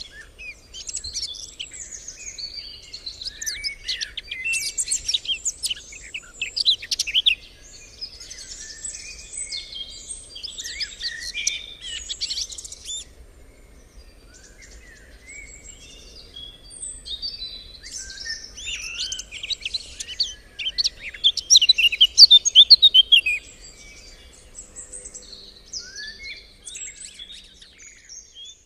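Birds singing in a dense chorus of overlapping chirps and rapid trills, with a loud stretch about three-quarters of the way in.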